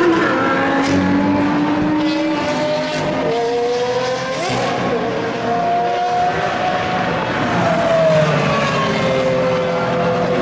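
Several supercar engines running hard at once, their notes rising, stepping down at gear changes, and falling as cars pass.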